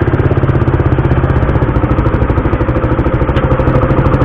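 Suzuki Raider 150 motorcycle's single-cylinder engine running steadily with a fast, even pulse.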